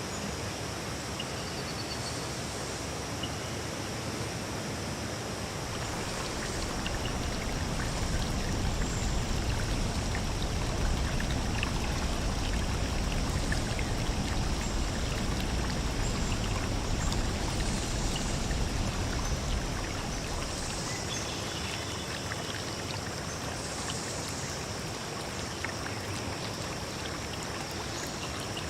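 A stream flowing steadily, its rush growing fuller and louder for a stretch in the middle. A faint steady high tone sits above the water throughout.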